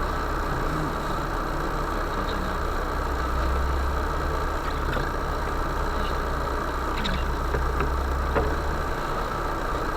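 UAZ Bukhanka van's engine running steadily, a low hum with a few faint clicks over it.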